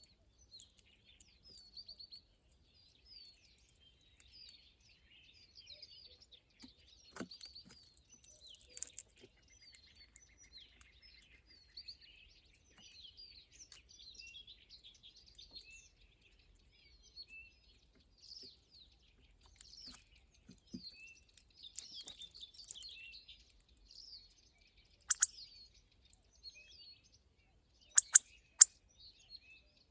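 Small birds chirping and twittering continuously, with a short even trill about ten seconds in. A few sharp clicks stand out, the loudest three near the end.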